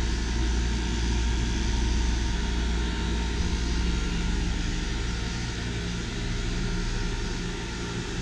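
Small 12 V DC water-cooled heat pump running steadily: a low compressor hum under the even whoosh of its fans.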